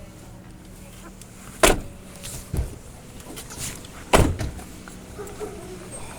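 Two loud sharp knocks about two and a half seconds apart, with a smaller knock and lighter clicks between, like a vehicle door being handled or shut.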